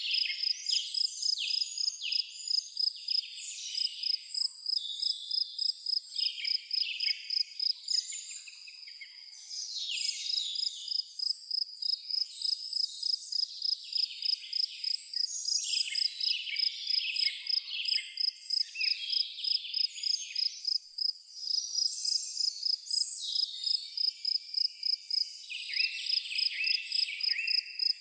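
A cricket chirping in a steady, even rhythm of a few high chirps a second, with birds singing and twittering over it. The cricket pauses for about two seconds near eight seconds in.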